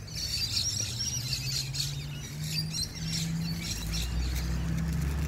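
Small birds chirping and twittering, busiest in the first few seconds, over a low steady rumble that grows louder near the end.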